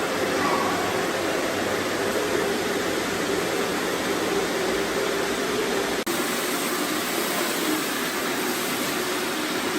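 Robot vacuums running together: a steady whirring hiss of suction motors and brushes, with a brief break about six seconds in.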